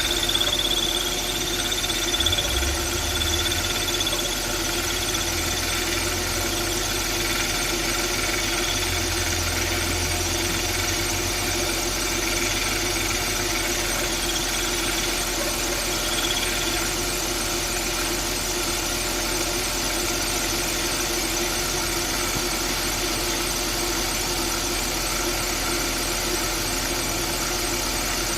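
Car engine running with a failing AC compressor clutch: a high squeal comes and goes over the steady running sound for the first half or so, loudest in the first few seconds, then fades out.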